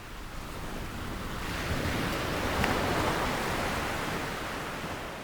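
A single ocean wave: surf noise that swells up, peaks about halfway through, then recedes and fades away.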